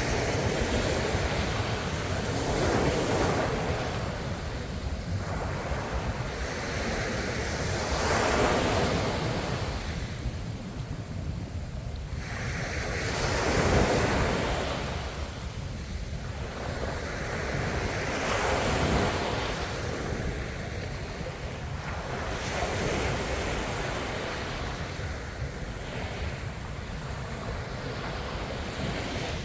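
Ocean waves breaking on the shore, each wave swelling and washing back about every five seconds, the one about halfway through the loudest, with wind on the microphone.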